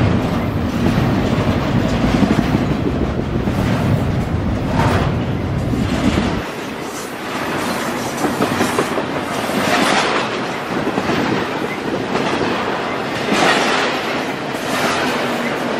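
Double-stack intermodal freight train rolling past close by: continuous rumble and wheel-on-rail noise, with a clack from the wheels every few seconds. The deep rumble drops away about six seconds in.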